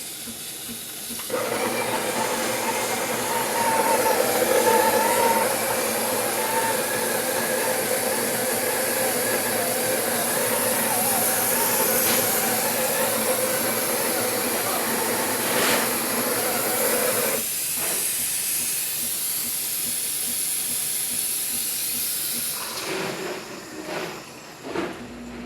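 Breville espresso machine's built-in burr grinder running steadily as a motor hum with a grinding hiss, thinning out about 17 seconds in and stopping a few seconds later, followed by a few clicks.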